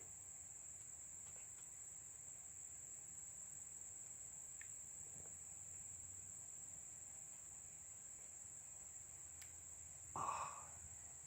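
Insects, crickets or similar, trilling steadily at a high pitch, faint against quiet woodland. A brief soft rustle comes about ten seconds in.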